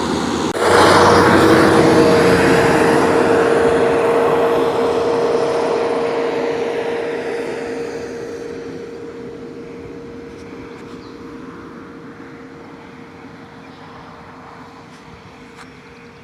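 Engine noise with a steady hum, starting suddenly and loud, then fading slowly over about ten seconds.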